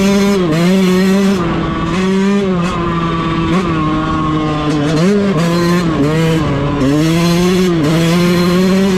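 2022 Yamaha YZ125 two-stroke single-cylinder dirt bike engine running hard at high revs, its pitch dipping and climbing back several times as the throttle is rolled off and on.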